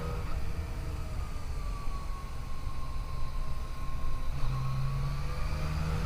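Yamaha FJ-09's 847 cc inline three-cylinder engine running under way, its pitch easing down, then rising again from about four and a half seconds in as the throttle opens, over a steady low wind rumble.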